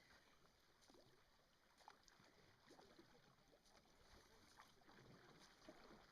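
Faint, repeated splashes of canoe paddles dipping and pulling through the water.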